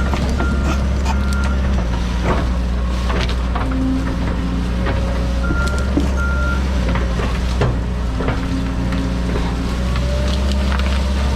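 John Deere 130G excavator's diesel engine running steadily under work, with a backup alarm beeping in short runs near the start and about halfway through. Scattered knocks and cracks sound over the engine.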